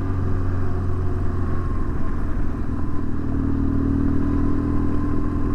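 BMW R1150GS Adventure's boxer-twin engine running steadily while the motorcycle is ridden, its pitch rising slightly about halfway through.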